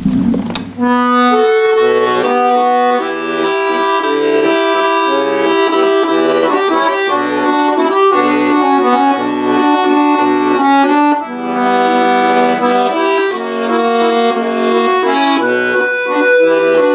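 Accordion playing the instrumental introduction to a Russian folk-style song, a melody over held chords, starting about a second in.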